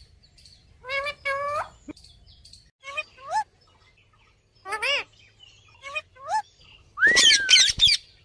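Ringneck parrot calling: a run of short, shrill calls spaced a second or so apart, then a louder, longer call with wavering pitch near the end.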